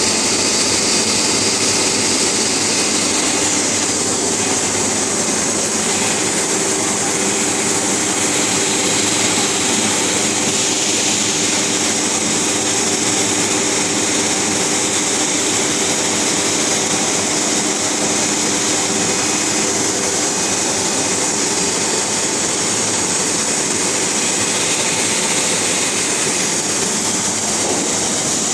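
Polyethylene pipe extrusion line running: a loud, steady machine hum with a strong hiss over it.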